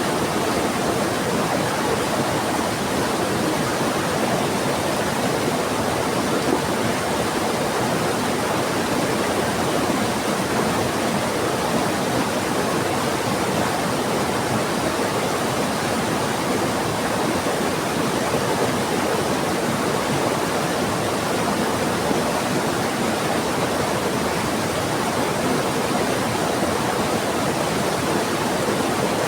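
Heavy rain and a fast-flowing river making a steady, even rush of water.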